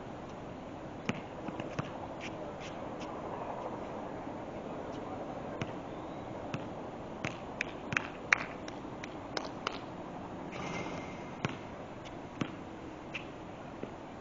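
Basketball play on a court: a run of irregular sharp knocks from the ball bouncing and players' feet, thickest and loudest around the middle, over a steady background hiss.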